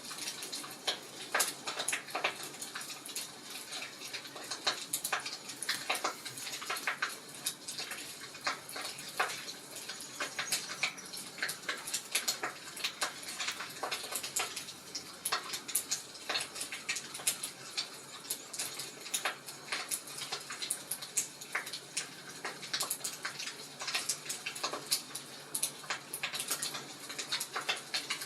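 Wood fire crackling in a fireplace: a steady bed of soft hiss with frequent, irregular sharp crackles and pops.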